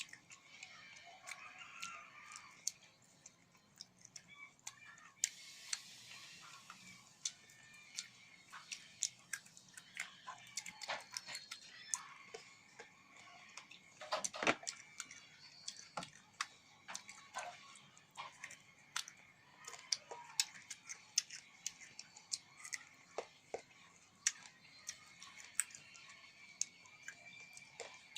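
Close-up eating sounds: crunchy bites and chewing with many sharp little clicks and crackles throughout, one louder crack about fourteen seconds in.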